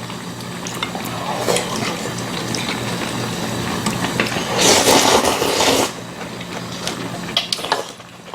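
Budae-jjigae stew bubbling in a pot on a tabletop burner, with small clicks of eating and a louder wet burst lasting about a second around five seconds in.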